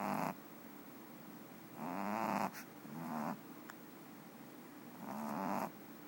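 Boston Terrier puppy snoring in its sleep: separate snores every second or two, with quiet breathing between.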